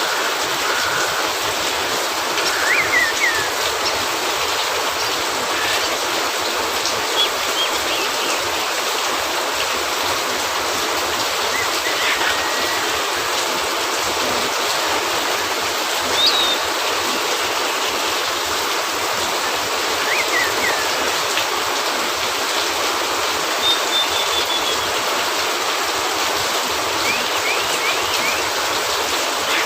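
Steady rain falling, an even hiss throughout, with a few brief high chirps or pops scattered through it.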